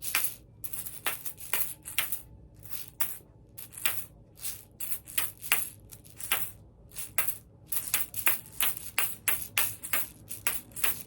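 West African seed rattle being shaken, giving crisp rattling strokes, spaced out and uneven at first, then quickening to a steadier rhythm of about four strokes a second over the last few seconds.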